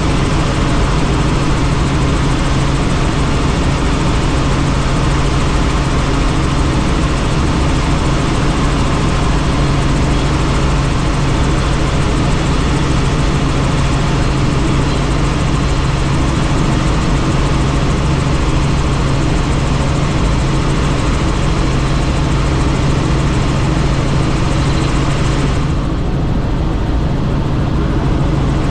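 Helicopter in flight heard from on board with the doors off: a steady low engine-and-rotor drone under loud rushing wind. About 26 seconds in, the high hiss of the wind drops away suddenly, leaving the drone.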